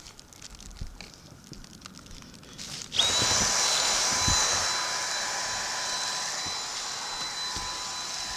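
Vacuum cleaner switched on about three seconds in, its motor spinning up to a steady whine and running on, after a few quiet handling clicks.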